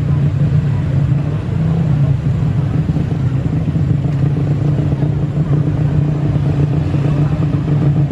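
An engine running steadily, a constant low hum with a noisy rush above it and no rise or fall in pitch.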